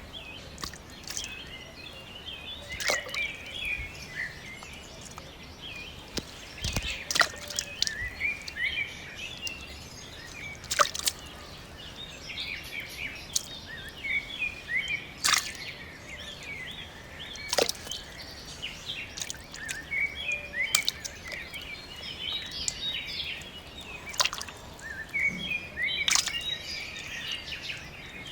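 Birds chirping and twittering continuously, with a sharp click or tap every few seconds.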